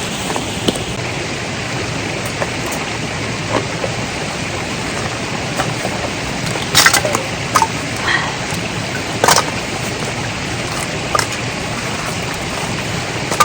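A sudden rain shower falling, a steady hiss blended with the rush of a mountain stream, with a few sharp knocks and taps scattered through it.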